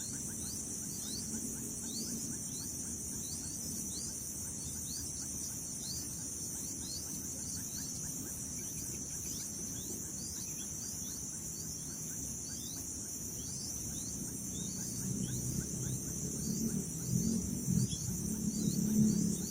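Steady high-pitched drone of an insect chorus, crickets or cicadas, with a running series of short falling chirps repeated a few times a second. Lower, uneven sounds grow louder in the last few seconds.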